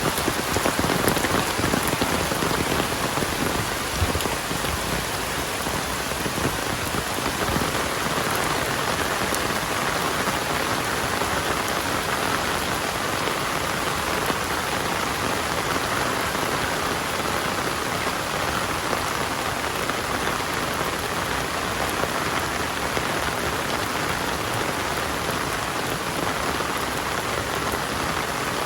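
Heavy rain falling steadily on surfaces, a dense even hiss of drops.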